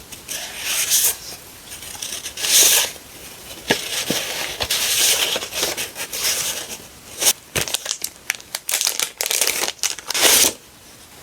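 Paper and packaging crinkling and tearing in repeated handfuls as sticker packs are opened and handled, with a few sharp clicks and taps in between.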